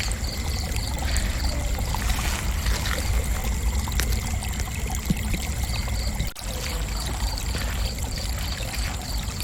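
Crickets chirping, about three chirps a second, over a continuous high insect trill and a low rushing background noise. The chirping stops after the first second or so and starts again near the end.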